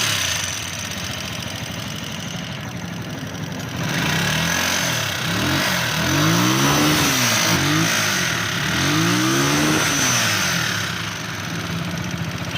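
150cc loader rickshaw engine running with a heavy noise from inside it, revved up and back down several times in the middle. The noise is one sign of an engine fault that also has it smoking and pushing oil out of its breather pipe.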